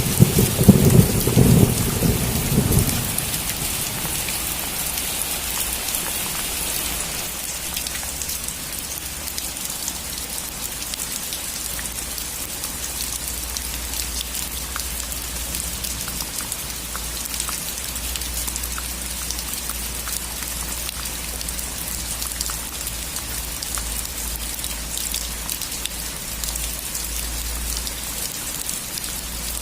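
Steady rain falling on a roof, with a rumble of thunder in the first three seconds that then fades into the constant patter.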